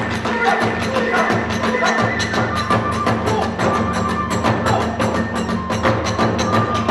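Kagura ensemble playing a fast passage: small hand cymbals clashing in a rapid, even beat over a drum, while a bamboo flute holds long high notes.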